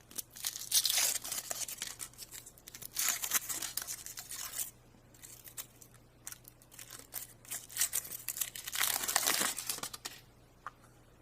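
A chocolate surprise candy's wrapper being torn open and crinkled by hand, in two spells of rustling with a pause of a few seconds between them.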